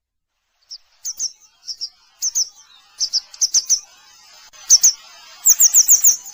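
Grey wagtail calling: short, sharp, high down-slurred notes, single and in quick pairs, ending in a rapid run of about five.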